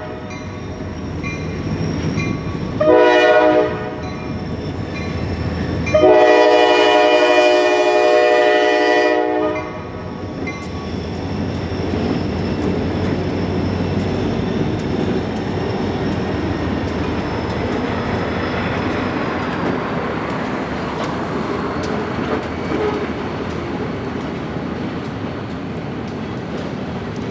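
Freight train's diesel locomotive air horn sounding a short blast and then a long one, the closing blasts of a grade-crossing signal. The train then rolls steadily past, its wheels clicking over the rail joints.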